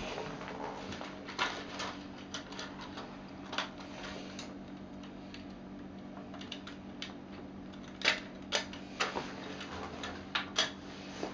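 Lego Technic plastic parts clicking and clacking as they are handled and adjusted by hand. The sharp clicks are irregular, with a cluster between about 8 and 11 seconds in, over a faint steady hum.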